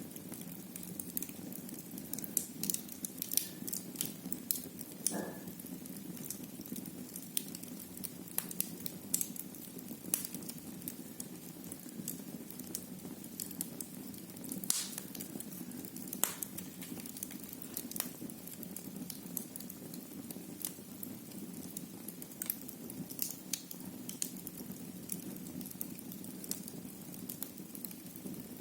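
Wood fire crackling in a fireplace: irregular sharp pops and snaps over a steady low background, with a couple of louder pops about halfway through.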